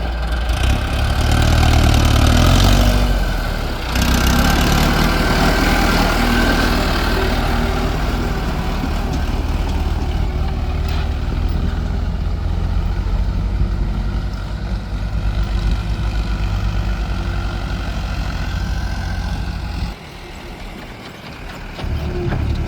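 Heavy diesel machinery running loudly and steadily. It is loudest for the first few seconds, dips briefly about four seconds in, and drops off for a couple of seconds near the end before picking up again.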